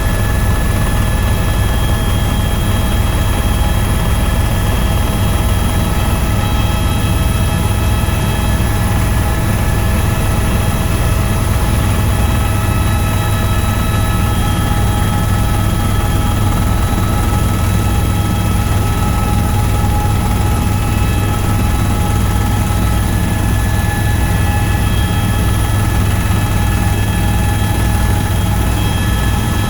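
Tour helicopter in flight, its rotor and turbine running steadily: a loud, unchanging low drone with several steady high whining tones over it.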